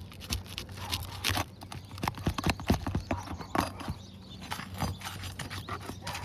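Irregular knocks, clicks and scrapes of a hand tool worked under asphalt roof shingles to loosen the fastening staples.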